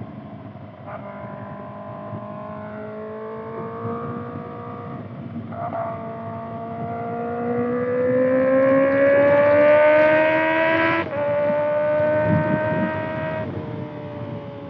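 Kawasaki ZX-6R's 636 cc inline-four with a Voodoo Racing slip-on exhaust, ridden hard: the revs jump up sharply twice early on, then climb for several seconds to the loudest point and drop sharply with an upshift about eleven seconds in.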